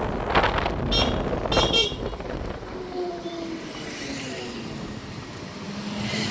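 Two short vehicle horn honks about a second in, over steady road traffic noise that grows quieter afterwards.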